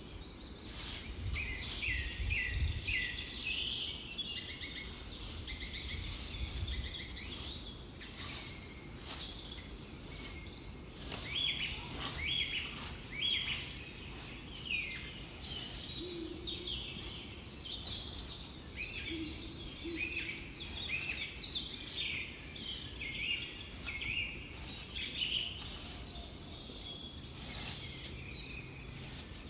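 Small birds chirping and singing continuously, many short calls overlapping one another, over a low background rumble.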